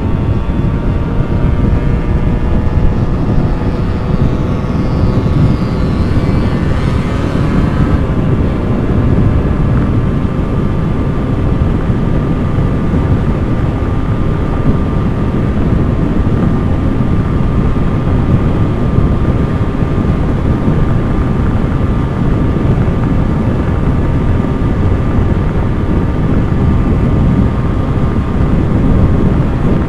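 Two-stroke motorcycle being ridden at a steady pace, with loud wind rushing over the microphone and the engine's hum underneath. A rising whine runs from about four to eight seconds in.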